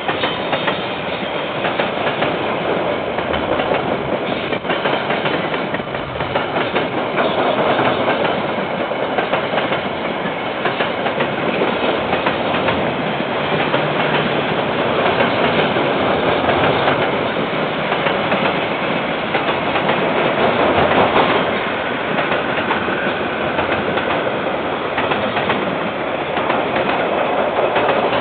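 KiwiRail container freight train wagons rolling past, with the steady rumble and clickety-clack of steel wheels over the rail joints, heard through a security camera's microphone.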